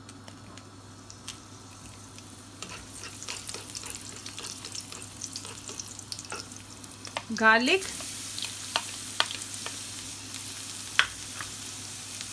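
Dried red chillies frying in hot oil in a wok, stirred with a slotted spoon that clicks and scrapes against the pan. About halfway through, chopped garlic goes in and the sizzle turns suddenly louder and hissier.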